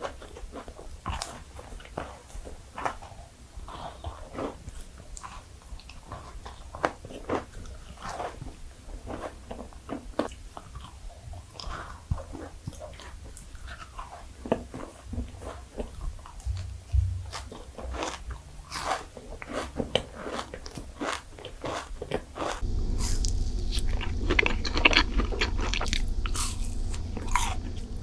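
Close-miked eating sounds: a person biting and chewing dessert, with many crisp crunching clicks. About three-quarters of the way through, the sound changes abruptly to a louder take with a low hum under the chewing.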